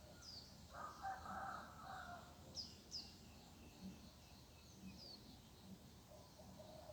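A distant rooster crows once about a second in, faint and lasting about a second and a half. Small birds give short, high, falling chirps around it.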